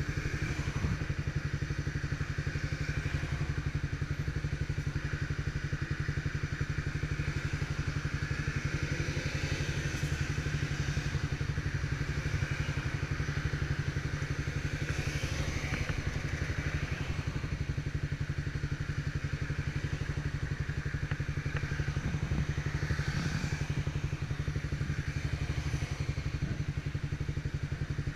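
Motorcycle engine running steadily, a continuous low pulsing rumble.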